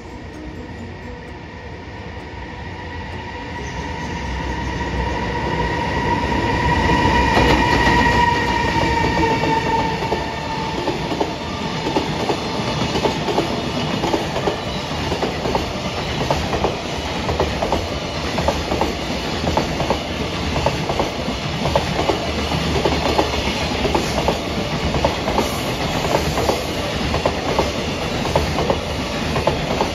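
A train drawing near, its whine growing louder and then dropping in pitch as it passes. It is followed by a long, steady clickety-clack of wheels running over the rail joints.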